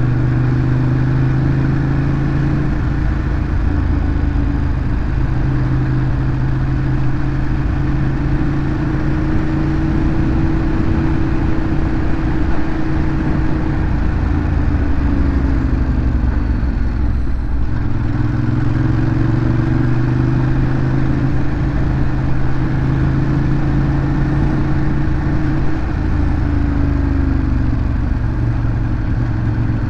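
Ducati Monster 821's L-twin engine through its stock exhaust, running steadily under way with revs slowly rising and falling. The revs drop briefly about seventeen seconds in, then pick up again.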